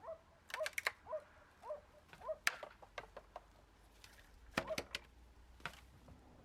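Short repeated animal calls, about two a second, mixed with sharp clicks and taps.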